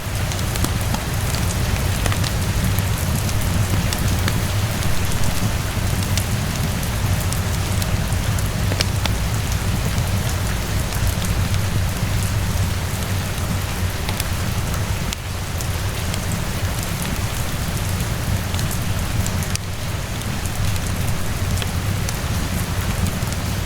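Steady rainfall, dense drops pattering over a deep low rumble, mixed with scattered sharp crackles of a wood fire in a fireplace.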